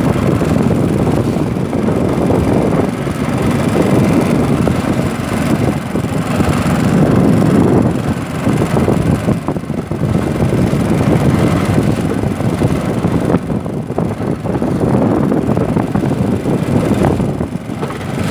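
Strong wind buffeting the microphone in loud, gusting rumbles on a canoe rocked by choppy river water.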